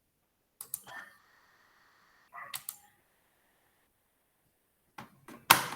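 Computer keyboard and mouse clicks in three short bursts, the last a quick run of sharp taps near the end.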